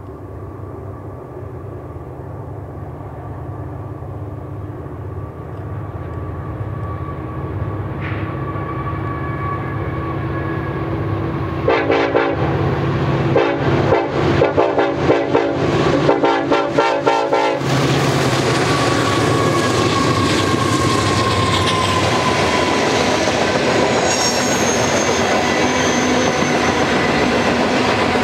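A freight train led by Union Pacific EMD SD70AH diesel locomotives approaches, its engine rumble growing steadily louder. The horn sounds in a run of blasts for about six seconds as the locomotives close in. Then the tank cars and covered hoppers roll by with steady wheel noise and a brief high wheel squeal.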